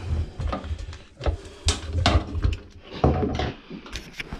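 Irregular knocks and clunks as the inside of an opened Samsung front-load washer is handled around its tub counterweight, which has snapped in half.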